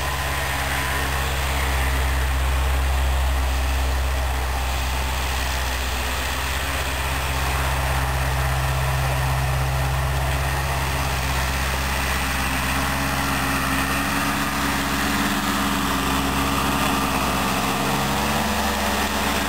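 Farm tractor engine running steadily while the tractor is under way, heard from on board. The engine note shifts slightly in pitch in the second half.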